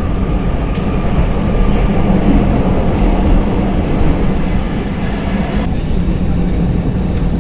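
Stockholm metro train running on the rails, a steady loud rumble with wheel and track noise. The higher hiss drops away a little over five seconds in.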